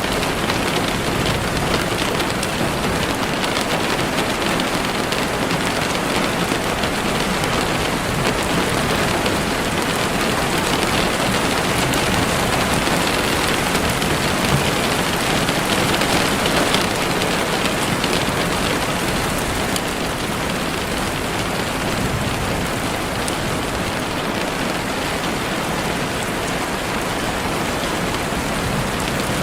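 Heavy rain falling steadily on leaves and the forest floor, a dense, even hiss of drops.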